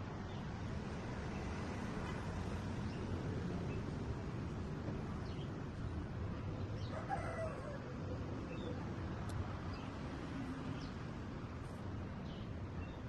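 Faint bird calls over a steady low background noise: scattered short high chirps, and one brief lower call about seven seconds in.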